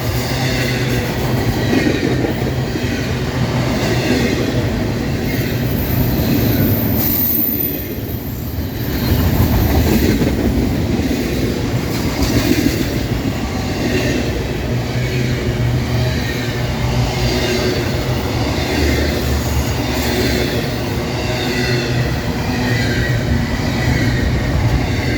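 Freight train cars rolling past on the rails in a steady loud rumble, with a thin high wheel squeal for a few seconds about a third of the way in.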